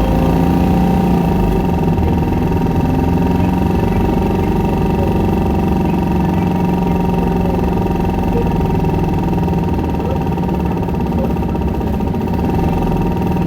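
Isuzu Erga city bus heard from inside while driving, its diesel engine and drivetrain running at a steady pitch under a low hum, with several constant high whine tones. The sound eases slightly near the end and then picks up again.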